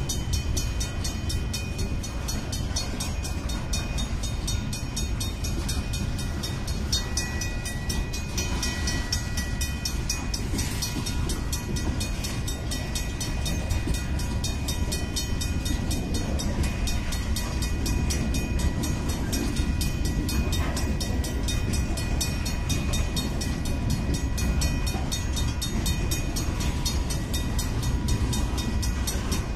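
Freight train of boxcars rolling past at close range: a steady rumble of steel wheels on rail with no break, and a few faint steady high tones over it.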